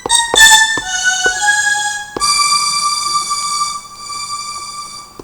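Roland M-DC1 sound module playing a bright, sustained synth patch: a few short notes in quick succession with sharp taps from the pads being struck, then longer held notes.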